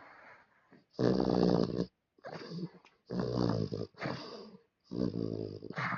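A small Maltese–Dachshund mix dog snoring in sleep. The snores come in a steady rhythm about one a second: three louder ones with softer ones between.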